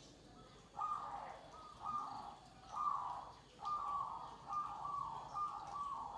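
Zebra dove (perkutut) cooing: a series of short coos, about one a second, starting about a second in and running more closely together toward the end.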